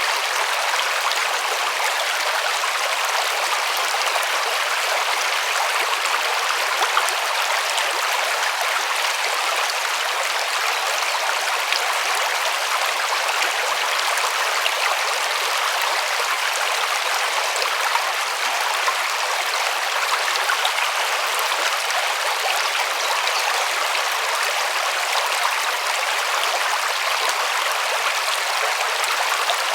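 River water running and splashing, a steady rushing with small splashes.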